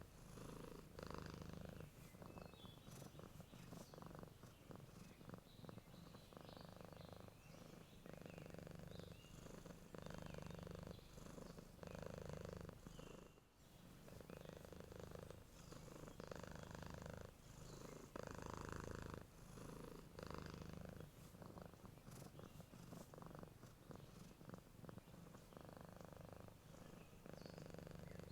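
Domestic cat purring steadily, swelling and fading with each breath about every two seconds.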